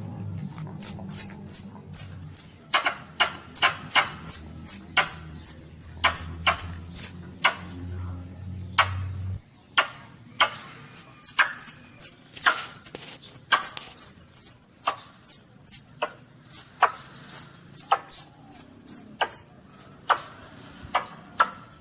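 Asian palm civet (luwak) kitten calling: a quick run of short, high squeaks, each falling in pitch, about two or three a second, with a brief pause partway through.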